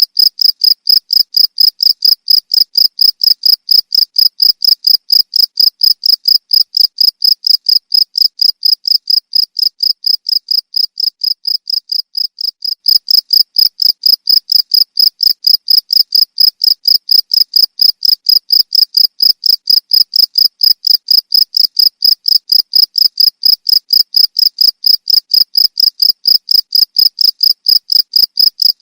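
Cricket chirping: a fast, even run of high-pitched chirps that never stops. It fades somewhat a little before halfway, then comes back to full strength.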